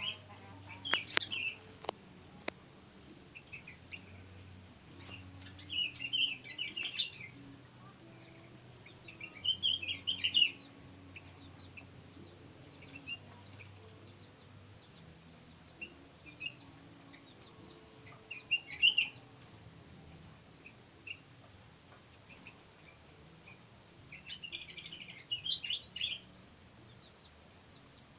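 Young sooty-headed bulbuls singing, quick chirpy phrases in about six short bursts with pauses between.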